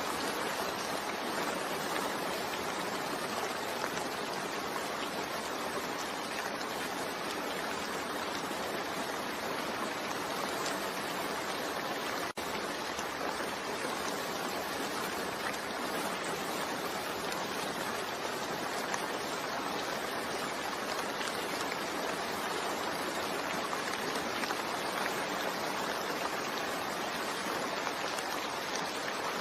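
Steady rain mixed with white noise, an even unbroken hiss of falling water, with a momentary dropout about twelve seconds in.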